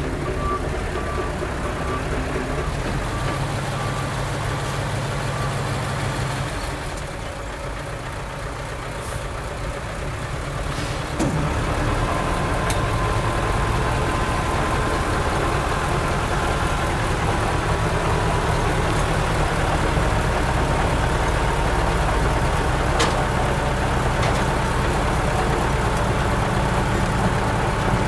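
Diesel engines of heavy earthmoving machinery running, with a reversing beeper pulsing for the first few seconds. About eleven seconds in the machinery gets louder and a steady high whine joins it, with a few short clicks and knocks.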